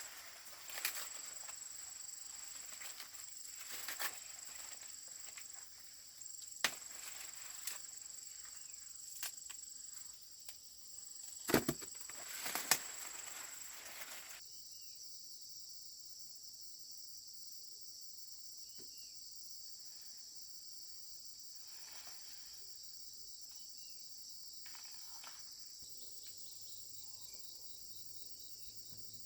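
Steady high buzzing of insects, with scattered sharp snaps and rustles of dry vegetation being handled during the first half, the loudest cluster about twelve seconds in; after that only the insect buzz remains.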